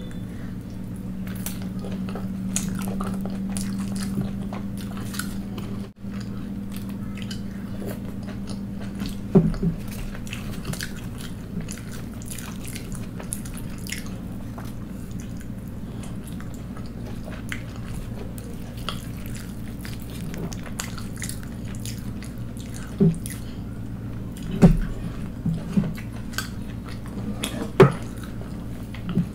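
Close chewing and wet mouth sounds of someone eating poori dipped in potato curry, with many small clicks and a few sharper clicks, over a steady low hum.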